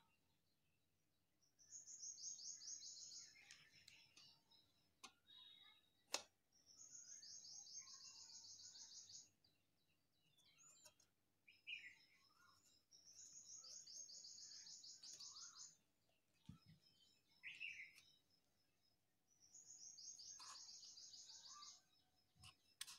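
A bird singing faintly: a fast, high trill about two seconds long, repeated four times at even intervals, with shorter chirps in between. A sharp click about six seconds in is the loudest single sound.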